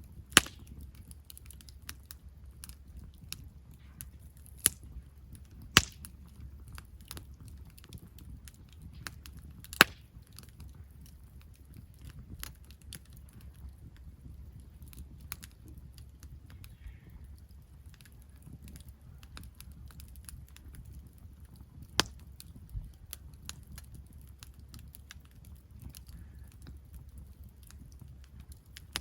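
Wood campfire crackling, with five or so sharp pops from the burning wood standing out over the steady small crackles, the loudest about half a second in and near ten seconds. A low steady rumble runs underneath.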